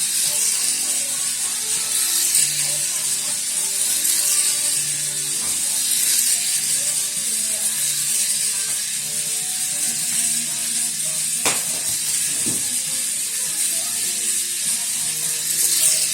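Toy airplane's small electric propeller motor whirring steadily at a high pitch, with faint music underneath.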